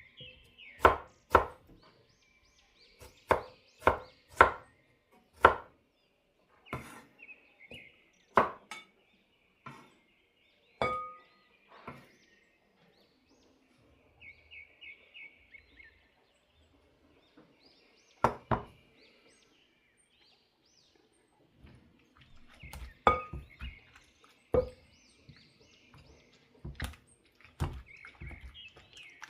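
Scattered sharp knocks and clinks of kitchen work, about fifteen strikes at uneven spacing, with birds chirping and trilling faintly in the background.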